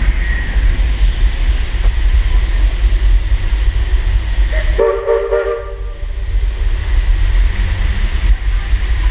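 Steam whistle on a 1915 Baldwin steam locomotive blowing one short blast about five seconds in, over a steady low rumble.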